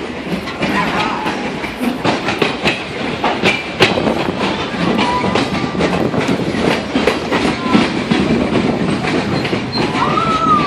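Passenger train rolling along the track, the wheels clicking steadily over the rail joints under a continuous rumble.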